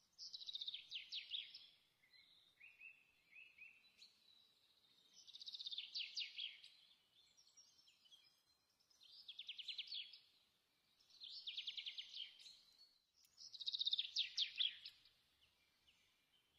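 A songbird singing: a phrase of rapid, high notes, each phrase about a second and a half long, repeated every two to four seconds, with softer notes between phrases.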